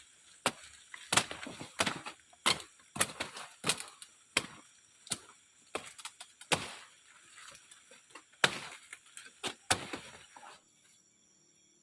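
A series of sharp, irregular knocks or snaps, about one or two a second, stopping near the end.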